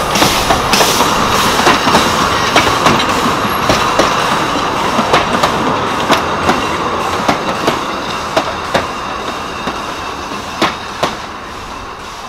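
Narrow-gauge steam locomotive and its open carriages passing close by, with wheels clicking over the rail joints about twice a second. The clicks space out into pairs and fade as the last carriages go by.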